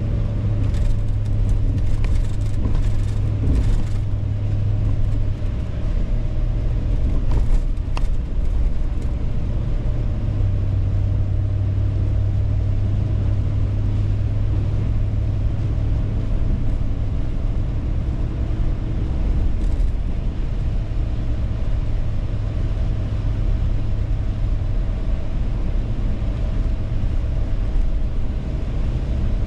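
A car driving at a steady speed: a constant low hum of engine and tyres on the road, heard from inside, with a few light clicks in the first few seconds and again about eight seconds in.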